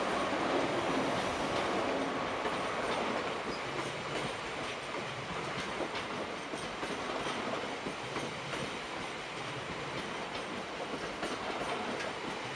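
Passenger coaches of an InterConnex train rolling slowly past, wheels clicking over rail joints. A wheel squeal fades out in the first second or so.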